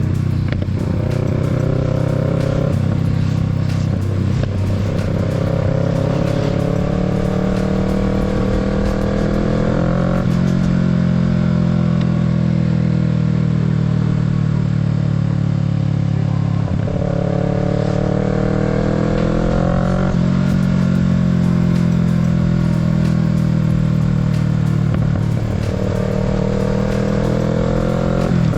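Kawasaki Z650's parallel-twin engine under way, accelerating hard through the gears. Several times the pitch climbs and then drops back as the rider shifts, with a steadier, slightly falling stretch in the middle.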